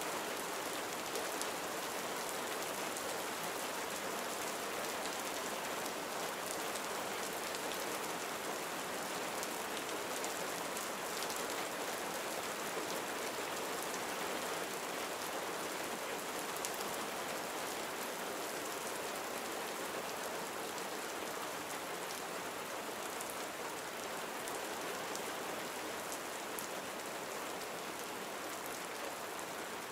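Gentle rain falling steadily: an even hiss with a faint patter of individual drops.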